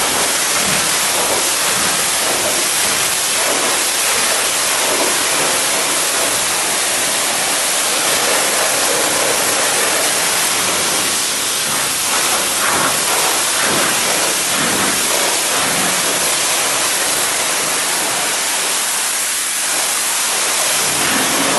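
Steady hiss of water spraying onto a car during a car wash.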